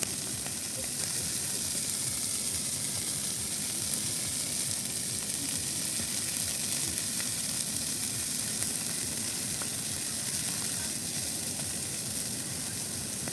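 Large bonfire of discarded Christmas trees burning, a steady crackle and hiss of the fire with faint scattered pops.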